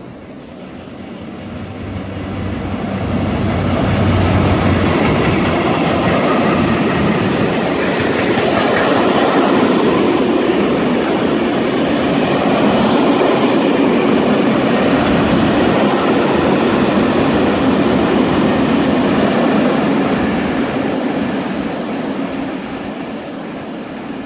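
Freight train passing close by: the diesel locomotive's low engine hum as it goes past, then a long string of goods wagons rolling with clickety-clack over the rails. The noise builds over the first few seconds and fades near the end.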